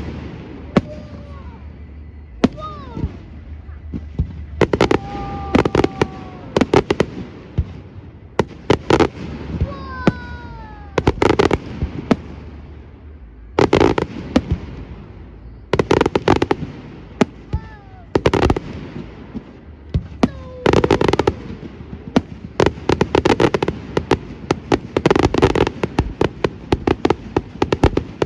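Fireworks display: a rapid series of loud bangs from bursting aerial shells, some in crackling clusters, coming thicker toward the end.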